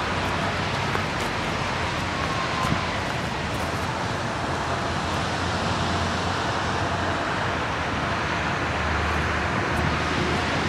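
Steady rushing of a flooded, rain-swollen river running fast.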